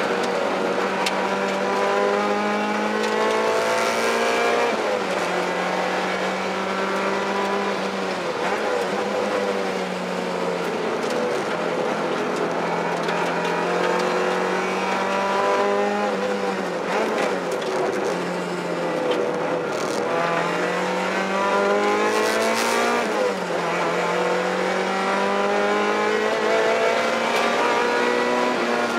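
Mazda Eunos Roadster's rebuilt 1.8-litre BP-ZE four-cylinder engine driven hard on a race circuit, revs climbing steadily under throttle and then dropping at shifts or lifts, several times over.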